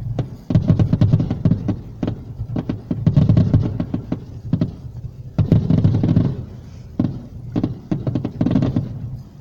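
Fireworks grand finale: a dense barrage of sharp cracks and bangs over deep booms that swell and fade several times.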